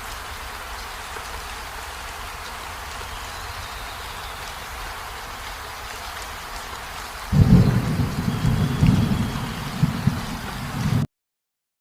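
Steady rain falling. About seven seconds in, a loud rolling rumble of thunder joins it, and then the sound cuts off suddenly near the end.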